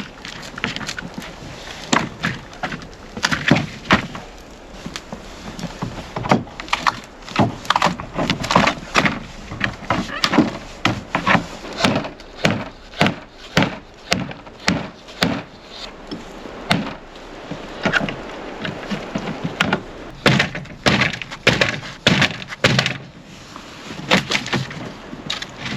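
Irregular series of wooden knocks and thunks, often several a second, from wood being struck and worked, with brief lulls about two-thirds of the way through and again near the end.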